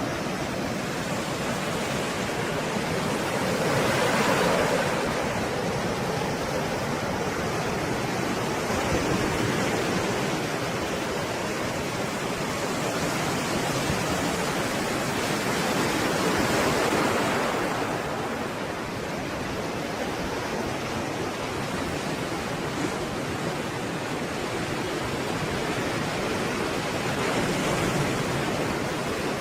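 Stormy sea surf: a steady wash of waves, swelling and easing every few seconds as waves break, with louder swells about four seconds in and again near seventeen seconds.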